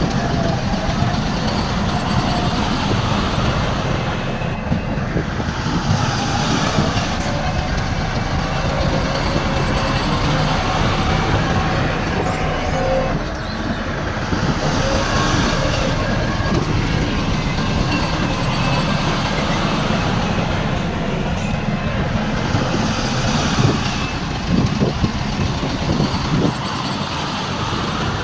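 Heavy earthmoving machinery running steadily: a diesel engine with rattling, and a few sharper knocks near the end.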